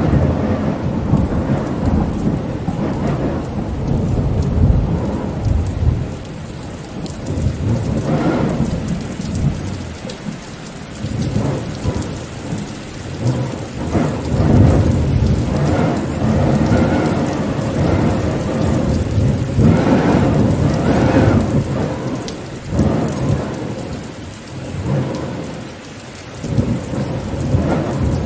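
Rain falling steadily in a thunderstorm, under a deep rolling rumble that swells and eases several times.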